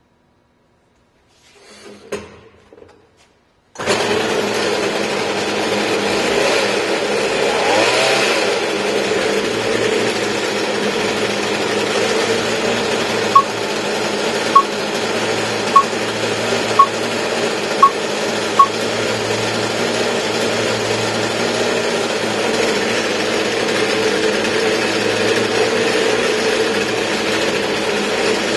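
A steady mechanical drone with a constant hum that starts suddenly a few seconds in, with a run of six sharp clicks about a second apart partway through.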